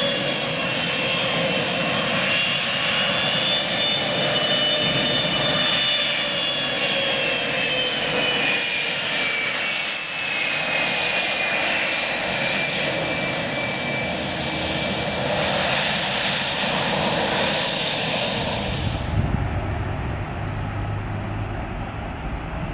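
Fixed-wing aircraft engines running loudly, with a whine that slowly falls in pitch as the aircraft moves past. The sound cuts off suddenly near the end and gives way to a lower, weaker rumble.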